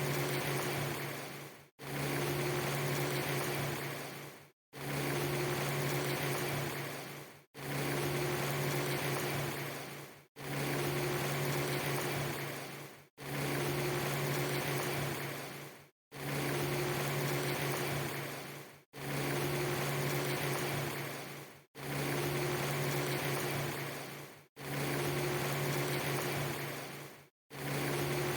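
A short clip of a steady rain-like hiss over a low, even hum, repeated as a loop: each pass lasts about three seconds, fades, drops out for a split second and starts again abruptly, about ten times over.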